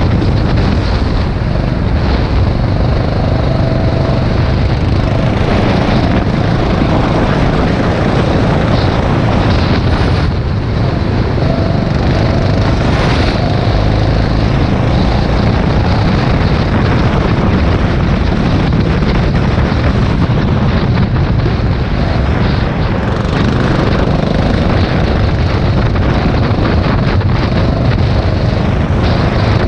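Rental go-kart engine running at racing speed under a steady rush of wind and track noise.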